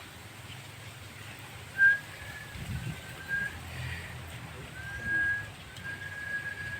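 Javan myna (jalak kebo) giving a series of four long, level whistles, beginning about two seconds in, over a low background hum.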